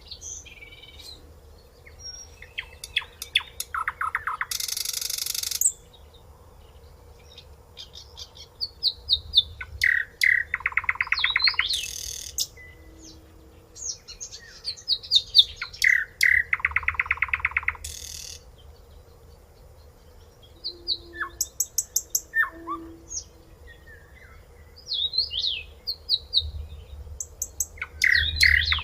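Common nightingale singing: varied phrases separated by pauses of a few seconds, mixing pure whistles, rapid runs of repeated notes and a short harsh rasping burst about five seconds in.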